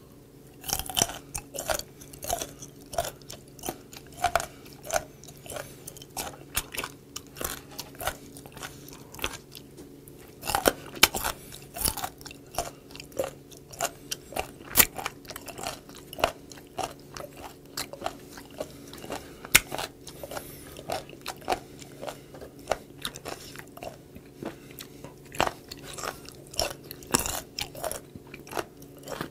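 Close-miked chewing of fermented skate nose cartilage: a steady run of crisp crunches, about one or two a second.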